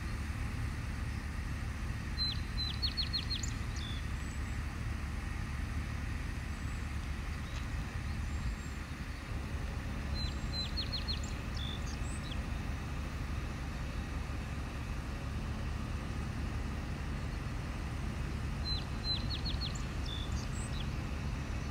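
A songbird sings the same short, high phrase three times, about eight seconds apart: a quick run of sharp notes ending on a lower one. Under it runs a steady low rumble.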